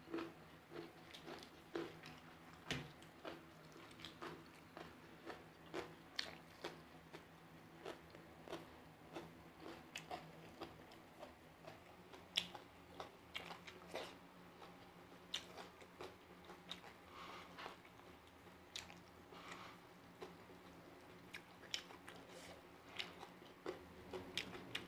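A person chewing a mouthful of food with the mouth closed, close-miked, giving irregular short clicking mouth sounds about one or two a second.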